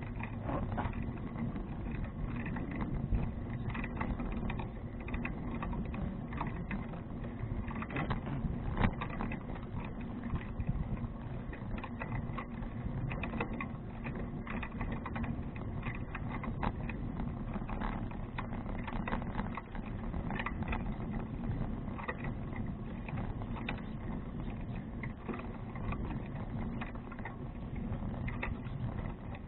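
A bicycle rolling along, heard from a bike-mounted action camera: a steady rush with a dense, unbroken patter of small clicks and rattles from the bike, with a slightly louder knock about nine seconds in.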